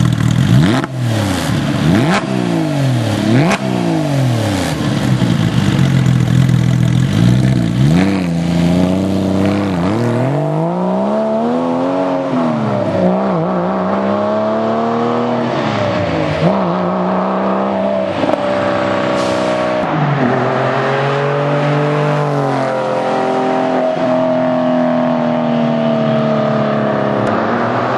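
Porsche 996 GT3's 3.6-litre flat-six through muffler bypass pipes, first revved in three quick throttle blips, then running under load with long, slow rises and falls in revs.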